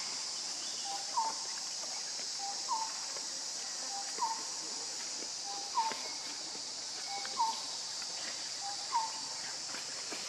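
A bird calling six times at even intervals of about a second and a half. Each call is a short low note followed by a quick hooked note, over a steady high hiss.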